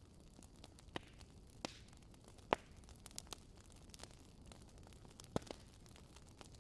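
Campfire crackling: a soft steady hiss with irregular sharp pops and snaps, the loudest about two and a half seconds in.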